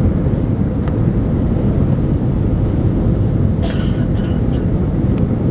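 Steady low rumble of an Airbus A319 in departure, its engines and airflow heard from inside the passenger cabin.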